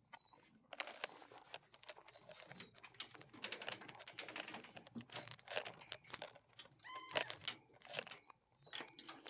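Pet birds shifting about a cage, making quick clicking and rattling sounds, with a short high chirp every two seconds or so.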